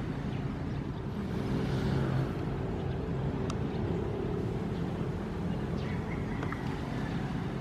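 Ocean waves: a steady low rumble of surf, with one wave swelling louder and hissier about two seconds in.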